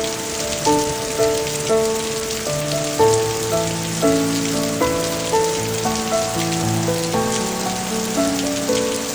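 Heavy rain falling steadily, a dense even hiss, with an instrumental melody of held notes playing over it.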